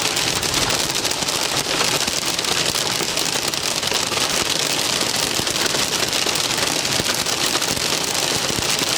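Heavy thunderstorm rain pelting a vehicle in a dense, steady patter of countless small drop impacts.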